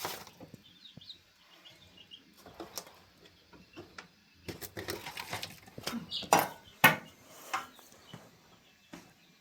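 Scattered knocks and clatter, the loudest two about six and seven seconds in, with faint high chirps in the first two seconds.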